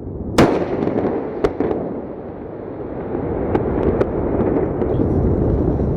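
Rocket rumbling, with a loud sharp bang about half a second in and a second crack about a second later, then scattered smaller cracks over a rumble that grows louder.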